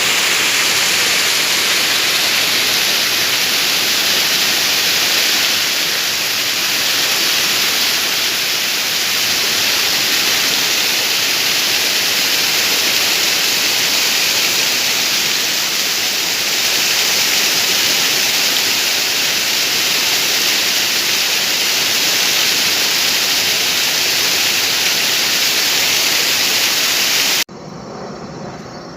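Waterfall: loud, steady rush of falling water. About 27 seconds in it cuts off suddenly, giving way to a much quieter outdoor sound with faint steady high-pitched chirring.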